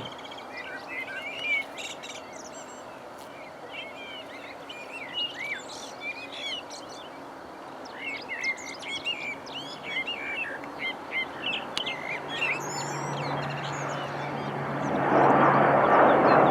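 Small birds chirping and twittering in many short, quick calls. About three-quarters of the way through, a steady low hum and a broad rushing noise from a jet or turboprop aircraft come in and grow loud near the end.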